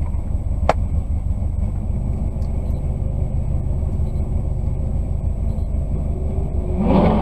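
Turbocharged flat-four of a 2015 Subaru WRX STI idling, a steady low rumble heard from inside the cabin, with a single sharp click about a second in. Near the end, another car's engine revs up loudly as it launches from the starting line.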